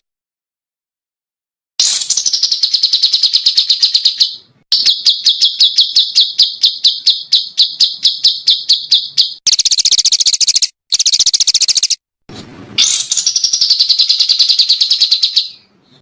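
A small songbird giving rapid-fire trills in several separate bursts, each a fast run of repeated high notes, with dead-silent cuts between them as in an edited birdsong training recording. The first two seconds are silent, and one burst near the middle is higher-pitched than the rest.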